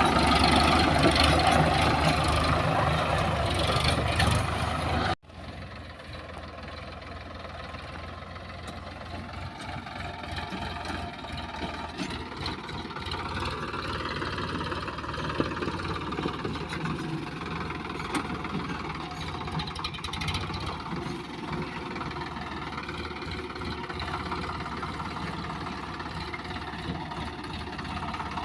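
Diesel engine of a backhoe loader or tractor running under work. It is loud until it cuts off abruptly about five seconds in, then runs on quieter and steady, its pitch rising and falling slowly.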